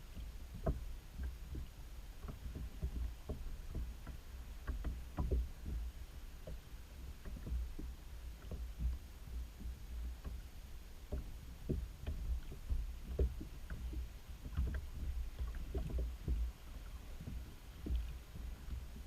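Water lapping and slapping against a kayak hull, with small irregular knocks and a steady low rumble.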